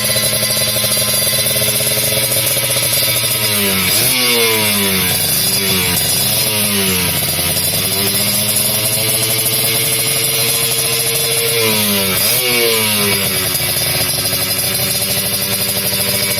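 Kawasaki Ninja motorcycle engine running through a Creampie ZZ1 aftermarket racing exhaust, idling steadily, then blipped a few times with quick throttle revs about four seconds in and again around twelve seconds in before settling back to idle.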